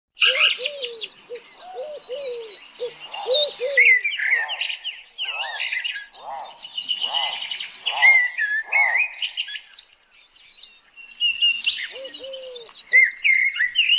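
Several birds singing and calling at once: high twittering and whistled chirps throughout, a run of short, low, falling notes at the start and again near the end, and a series of about six evenly spaced arched calls, roughly one a second, in the middle.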